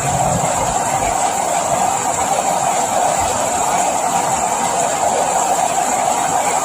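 Steady, continuous rain hiss, with a few soft low thuds in the first few seconds.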